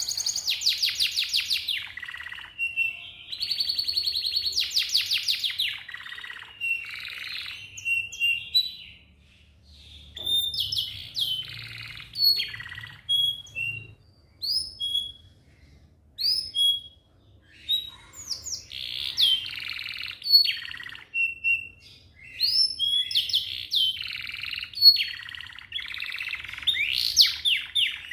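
Domestic canary singing a long song: fast rolling trills of rapidly repeated notes alternate with separate clear whistled notes and short chips, with brief pauses between phrases.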